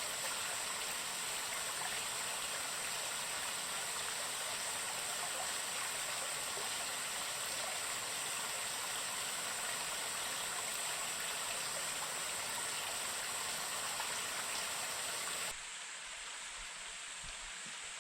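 Rushing water, heard as a steady, even roar with a high hiss over it. About fifteen seconds in, the sound drops suddenly to a quieter, thinner rush.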